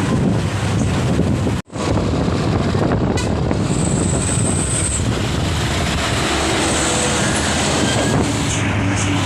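Diesel truck engine running, mixed with heavy wind noise on the microphone; the sound cuts out for an instant about one and a half seconds in.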